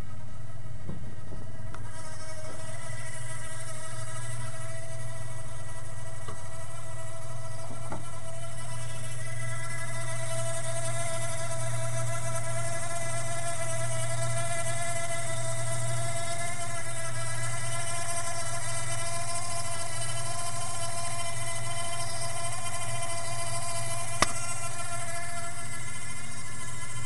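3.8-litre V6 engine running steadily with a constant whine over its low hum. A single sharp click near the end.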